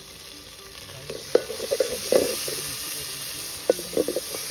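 Chopped onion and tomato frying in hot oil in a kadhai. A spoon stirs and scrapes against the pan in bursts from about a second in, and the sizzle grows louder.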